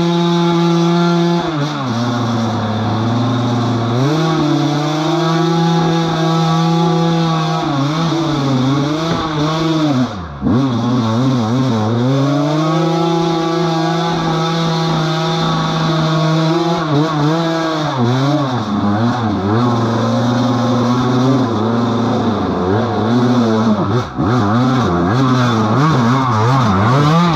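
Off-road vehicle engine revving hard over and over, its pitch holding high, dropping and climbing again, with a short drop-off about ten seconds in.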